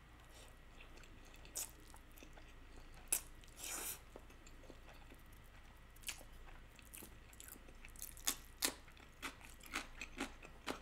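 Close-up mouth sounds of a person eating spicy stir-fried instant noodles: chewing and biting. In the last few seconds comes a quick run of crisp crunches from bites of pickled radish.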